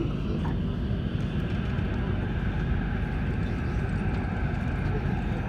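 Guangzhou Metro Line 6 train running, heard inside the carriage: a steady rumble with a faint whine above it.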